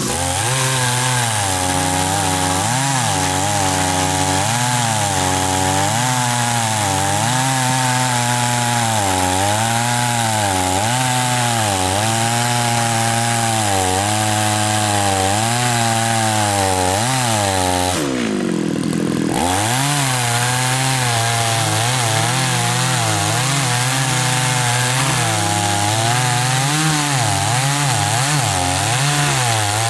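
Chainsaw running under load as it cuts through tree wood, its engine pitch sagging and recovering with the cut. A little past halfway it eases off for about a second, then speeds up again.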